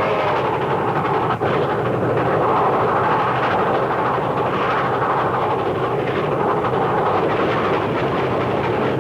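Locomotive-hauled train running on the rails, a steady, continuous noise of wheels and running gear with no break.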